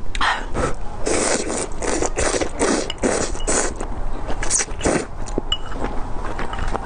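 Close-miked eating sounds: a quick run of rasping chewing strokes, about three a second, that thin out about five seconds in.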